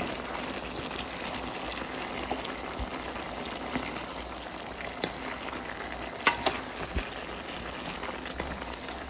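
Squirrel meat with chilies and eggplant sizzling and bubbling in a hot pan as it is stirred, with a few sharp knocks of the stirring utensil against the pan, the loudest about six seconds in.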